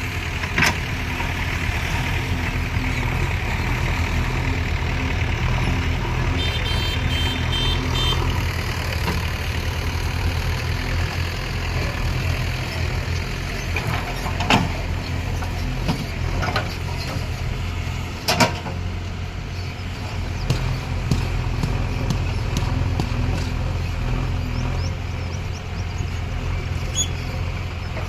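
Diesel engine of a JCB backhoe loader running steadily while loading soil, with a few sharp knocks now and then.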